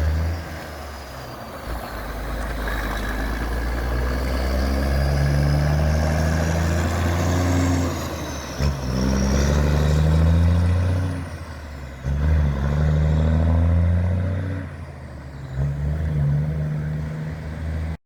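Diesel semi truck accelerating through the gears: the engine note climbs, then drops at each upshift, about every three to four seconds.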